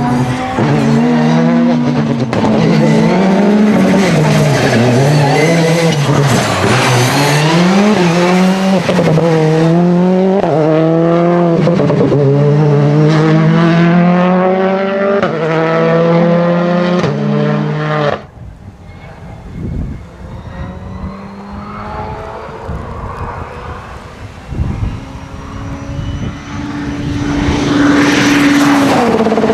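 Rally car engines at full throttle, pitch climbing and dropping sharply with each gear change as a car passes hard. About 18 seconds in the sound cuts abruptly to a quieter stretch with a fainter engine, and near the end another rally car comes up loud and steady.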